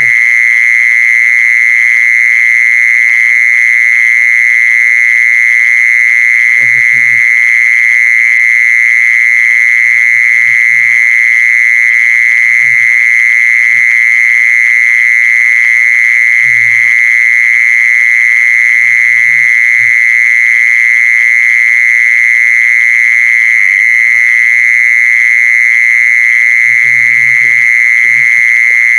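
Continuous song of the insect called 'jeeson' in Thai: one unbroken, loud, high-pitched trill near 2 kHz that holds steady without pause or change in pitch.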